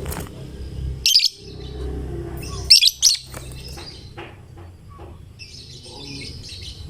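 Lovebird calling: shrill sharp chirps about a second in and again near three seconds, then rapid high chattering toward the end, over a low background rumble.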